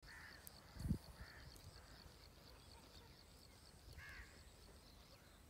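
Faint outdoor ambience of birds: three short caw-like calls, with a fast, even, high chirping trill running on until near the end. A brief low thump comes just under a second in.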